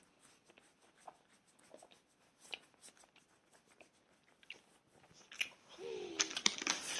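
Faint chewing and crunching of a snack close to the microphone, scattered small crackles that get busier and louder about five seconds in, with a brief voiced hum near the end.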